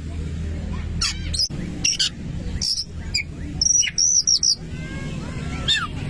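Oriental magpie-robin (kacer) singing vigorously: a string of sharp whistled notes, with quick rising and falling chattering phrases. A steady low hum runs underneath.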